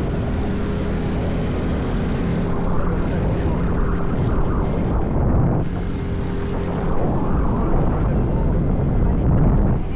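Motorcycle engine running steadily while riding, a constant drone that grows a little louder about seven seconds in.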